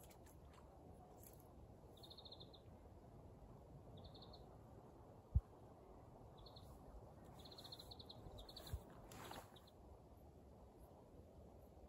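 Near-silent background with a small bird chirping in short, rapid trills several times. There is a sharp low thump about five seconds in, and a weaker thump and a brief rustle near nine seconds.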